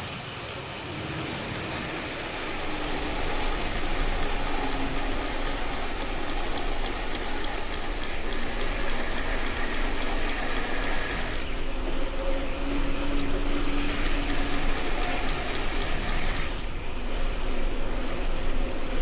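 Steady rushing noise of riding a bicycle: wind on the microphone mixed with tyres rolling on pavement, swelling over the first few seconds as speed builds.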